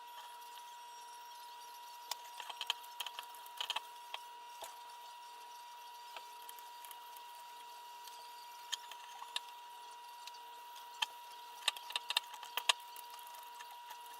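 Scattered light clicks and taps of small parts being handled, in clusters, over a steady high-pitched whine.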